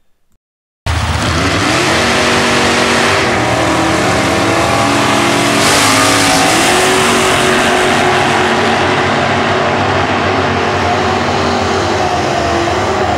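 Drag race cars running down the strip under power, with loud engine sound that starts abruptly about a second in and holds, its pitch rising and shifting as the engines rev.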